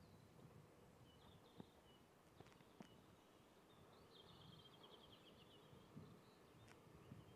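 Near silence with faint birdsong: a small bird twittering briefly about a second in and again for longer from about four seconds, over a faint low background rumble.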